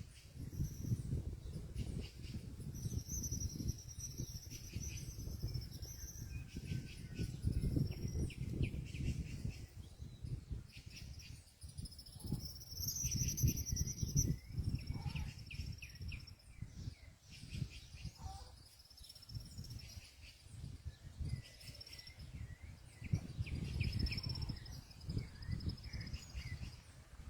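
Small birds chirping and calling in short, high-pitched phrases that come again and again, over a low, uneven rumble.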